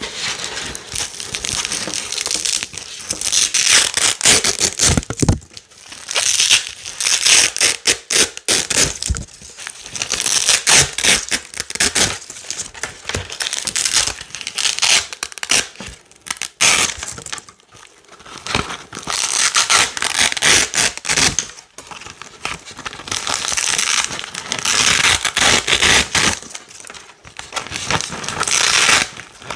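Velcro hook-and-loop strips being pulled apart over and over: a series of crisp ripping tears, each lasting a second or more, with short pauses between them.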